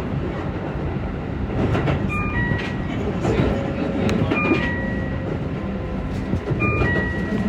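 Keihan electric train running, heard from the driver's cab. A two-note falling electronic chime sounds three times, about two seconds apart.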